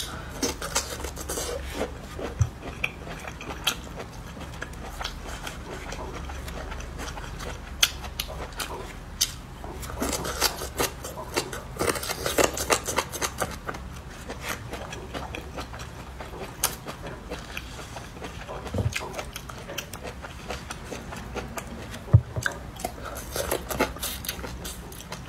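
Crunching and chewing of spicy hand-peeled bamboo shoots: irregular crisp crackles and bites, busiest around the middle and again near the end.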